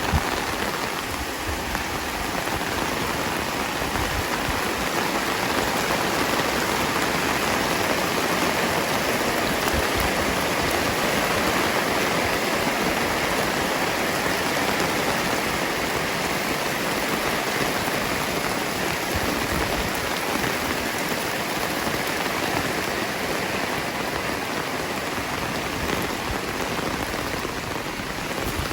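Heavy rain falling steadily, a dense even hiss of rain on surfaces, swelling a little louder in the middle.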